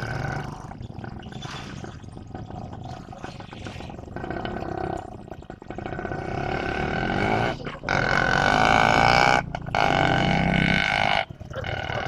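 General Electric diesel locomotive running, then sounding its horn in two long blasts, the first starting about seven seconds in and the second cutting off sharply near the end.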